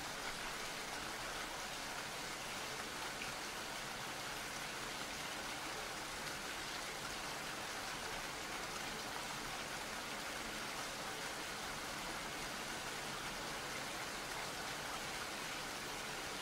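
Steady rain falling, an even hiss of rainfall that keeps the same level throughout.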